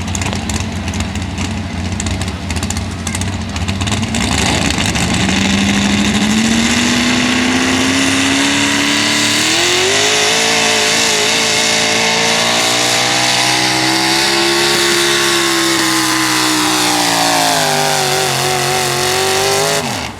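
4x4 pulling truck's engine running hard at full throttle during a pull. Its pitch climbs steadily, jumps higher about halfway through, sags and rises again, then cuts off abruptly near the end.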